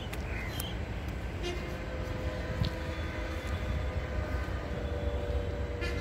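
Distant approaching train heard as faint steady tones that set in about a second and a half in, over a constant low rumble, with a few short chirps near the start.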